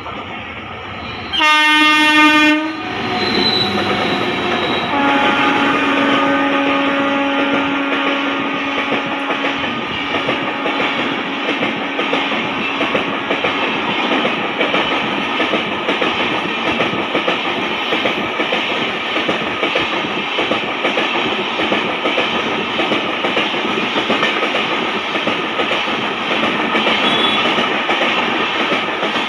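Express train running through at speed behind an Indian Railways electric locomotive. A short, loud horn blast about a second and a half in is followed by a longer horn from about five seconds that fades out. Under both is the steady rush and wheel clatter of the coaches going past.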